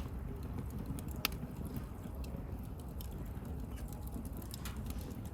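Wood bonfire crackling: scattered sharp pops and ticks from the burning wood, a clear pop about a second in and a softer one near the end, over a low steady rumble of the flames.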